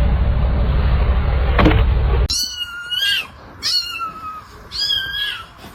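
A loud, steady, low rumbling noise that cuts off suddenly a little over two seconds in, then a kitten meowing three times in high-pitched calls, each about half a second long.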